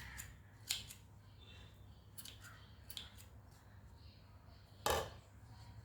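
Scissors snipping a handful of separate cuts while trimming a craft parrot's tail, the last snip the loudest.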